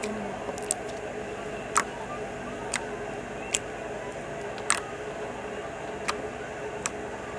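Sticky, stretchy slime being handled, giving off about seven short, sharp clicks and pops at irregular intervals over a steady background hum.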